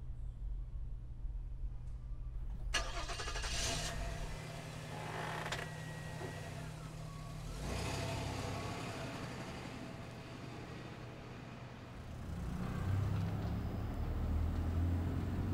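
A car engine starting about three seconds in and running steadily, then the car driving past, its engine growing louder near the end.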